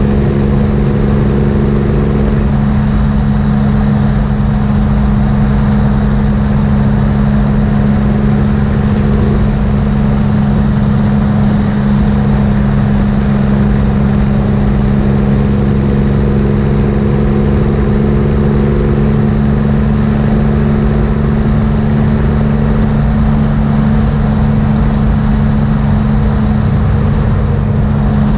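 Triumph motorcycle engine running steadily at highway cruising speed, a constant low drone that holds level with no change in throttle.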